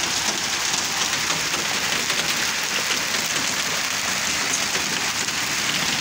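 Heavy rain falling and splashing on hard surfaces, a steady dense hiss with fine pattering.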